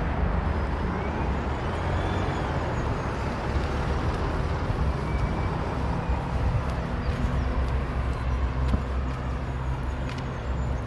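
Steady low rumble of a vehicle running, with faint high squeals coming and going over it.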